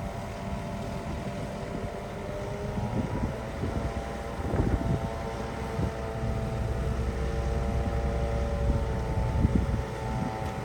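Diesel engine of heavy construction machinery running steadily with a low rumble, its pitch shifting slightly a few times.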